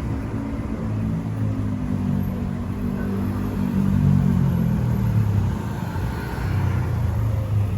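A motor vehicle's engine passing close by, a low hum that falls slightly in pitch and is loudest about four seconds in.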